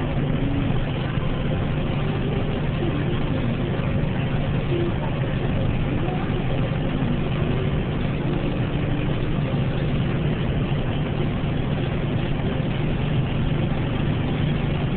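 Steady engine and tyre noise of a car driving along a highway, heard from inside the moving vehicle: an even low rumble with a hiss over it and no sudden changes.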